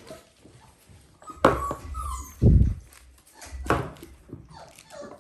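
Dalmatian puppies yapping and whimpering in short bursts while they play-fight, with a loud low bump about halfway through.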